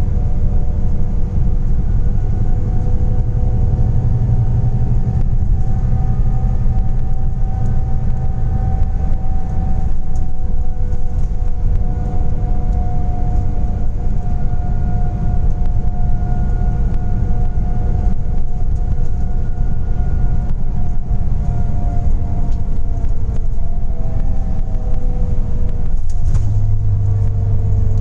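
Scania Interlink natural-gas (CNG) bus running, a steady deep rumble with a whine that holds its pitch, then slides down and shifts over the last few seconds.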